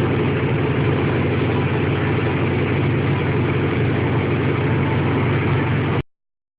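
Muscle car engine idling, steady and low-pitched, until the sound cuts off abruptly about six seconds in.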